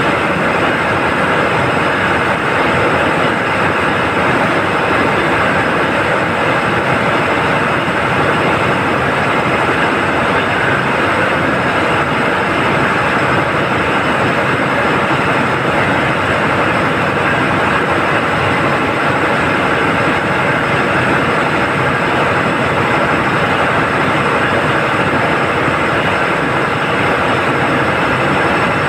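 Ship's diesel engines running steadily in the engine room: a loud, even mechanical din with a few steady high tones held over it.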